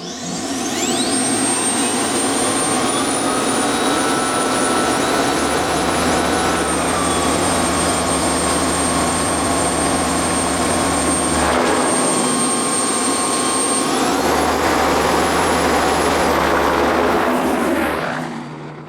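Bell 206B-3 JetRanger III helicopter running close by: the turbine's high whine over the rotor's low beat. The whine rises as the sound comes in, holds steady with small steps in pitch, then fades away near the end.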